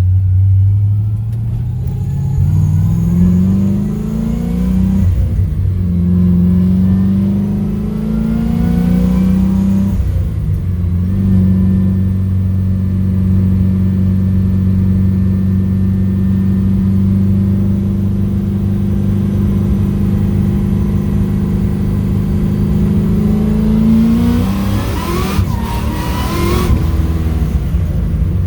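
Whipple-supercharged 6.0-liter LS V8 of a 1971 Firebird accelerating through the gears: the engine note climbs, drops at a shift about 5 s in and again about 10 s in, then holds a steady pitch while cruising. Near the end it revs up briefly and falls away with a burst of hiss.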